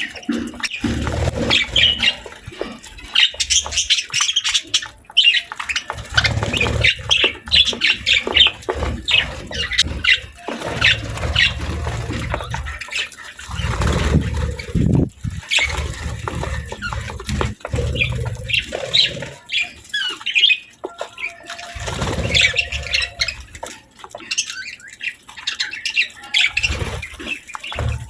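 Budgerigars chirping and chattering in quick, high, short calls, with stretches of low rumbling underneath.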